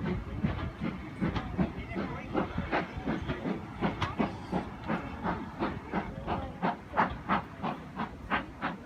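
Steam train running with a steady rhythmic beat of about three to four sharp strokes a second, with steam hissing.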